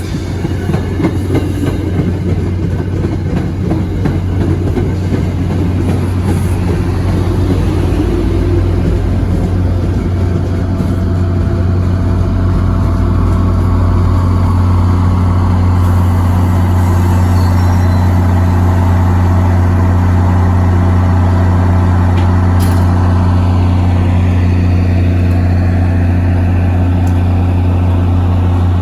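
Diesel locomotive engine running with a steady low hum, growing louder over the first dozen seconds and then holding steady.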